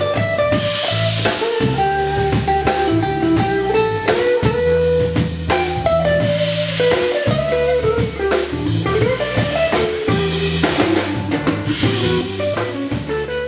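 Band music with guitar and a drum kit playing a steady groove.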